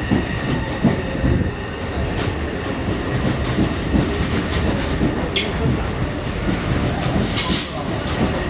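Taipei Metro C301 train rolling into a station, its wheels rumbling and clicking over the rail joints, with a steady high tone running underneath. A brief sharp hiss comes about seven and a half seconds in.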